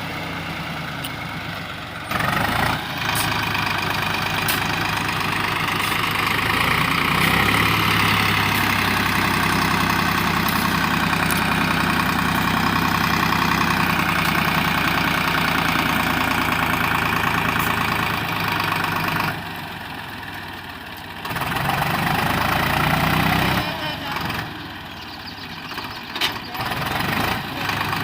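Swaraj 735 FE tractor's three-cylinder diesel engine running, louder for most of the stretch, dropping back sharply about two-thirds of the way through and again near the end.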